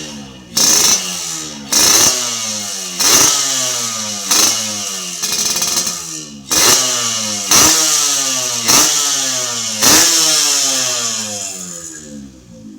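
Yamaha RX-King two-stroke single-cylinder engine running through an aftermarket galvanized racing expansion-chamber exhaust, its throttle blipped about once a second, each rev jumping up and falling back in pitch. The revving dies down near the end.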